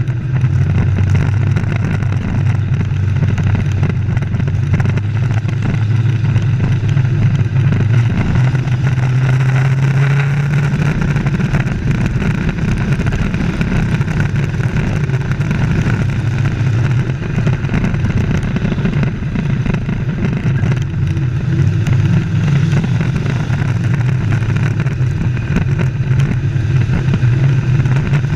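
Race trucks' engines running at speed around an oval track, a loud continuous engine drone whose pitch shifts upward about a third of the way through.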